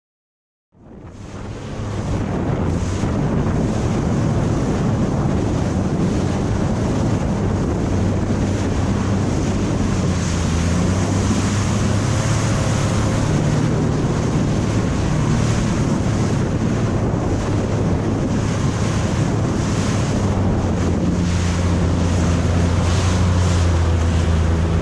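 Sea-Doo personal watercraft running on open water: a steady engine drone under heavy wind buffeting on the microphone and rushing water, starting abruptly about a second in.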